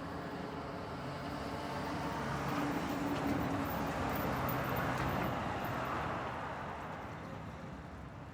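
Road traffic ambience: a vehicle's engine and tyre noise swells as it approaches, passes around the middle and fades away, over a steady traffic hum.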